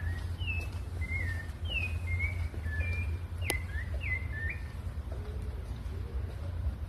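A sabiá thrush singing a run of short, clear whistled notes, many sliding downward, several a second, which stop about two-thirds of the way in. A steady low rumble runs underneath, with a single sharp click midway.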